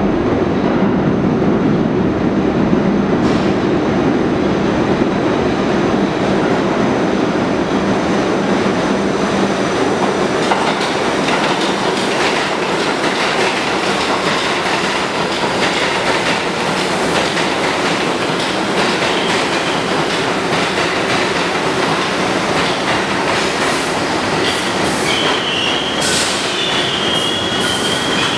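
New York City Subway R62A train running along the station platform, its wheels clattering over the rail joints, with a steady low hum early on. Near the end the wheels start a high, sustained squeal.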